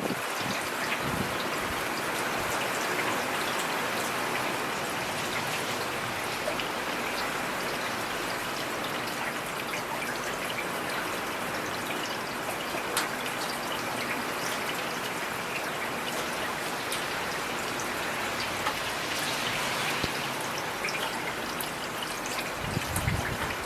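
Heavy rain falling steadily, an even hiss dotted with sharp drop ticks. A brief low rumble comes in near the end.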